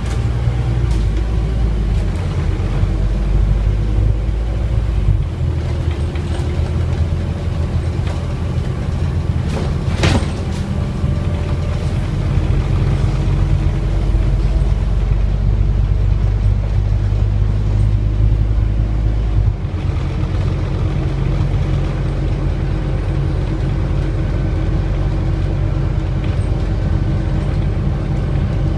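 Scania N230UD double-decker bus under way, its Euro V diesel engine running with a steady low drone that shifts a couple of times as the six-speed ZF automatic gearbox changes gear. A single sharp knock comes about ten seconds in.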